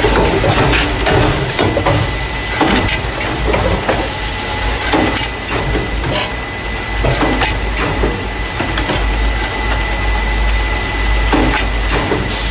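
Carton case packer running, the machine that moves paper juice and milk cartons into plastic crates: a rapid, irregular clatter of clicks and knocks over a low hum and a steady high tone.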